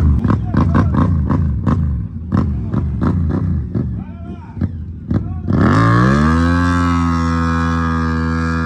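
Motorcycle engines at a drag strip, giving rapid sharp crackling bursts a few times a second. About five and a half seconds in, the sound switches abruptly to a steady droning tone that rises briefly and then holds.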